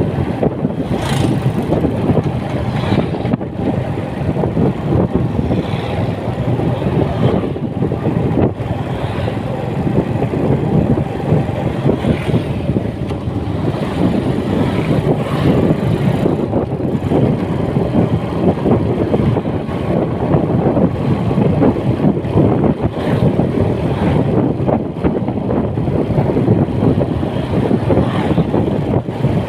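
Motorcycle riding along: a loud, steady rumble of wind and road noise over the running engine.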